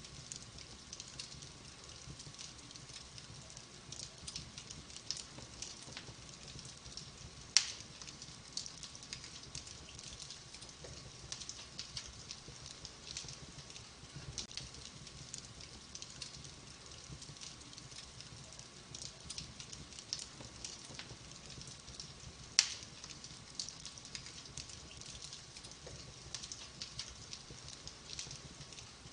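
Wood fire burning in a fireplace: a steady stream of small, light crackles, with two much louder sharp pops, one about a quarter of the way in and one about three quarters of the way through.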